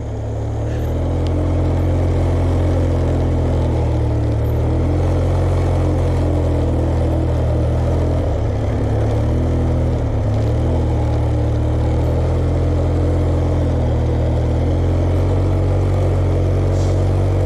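Tractor engine running steadily under load as it pulls a drag harrow, building up over the first couple of seconds and then holding an even pitch.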